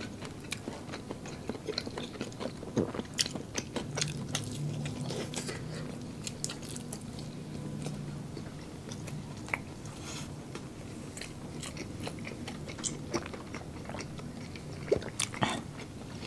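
Close-miked eating of breaded chicken nuggets: chewing and biting with many sharp crunches and wet mouth clicks. A low hum runs through the middle.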